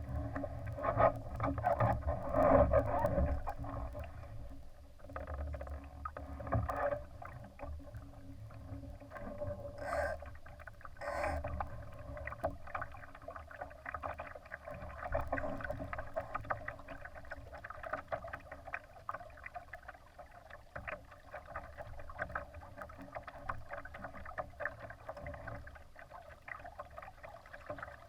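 Water splashing and rushing against the hull of a Laser sailing dinghy under way: a steady, dense crackle with a low rumble beneath, loudest in the first few seconds.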